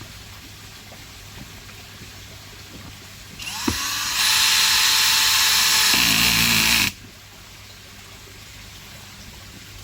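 Cordless power driver spinning up and driving a screw for about three seconds, starting a few seconds in and cutting off abruptly.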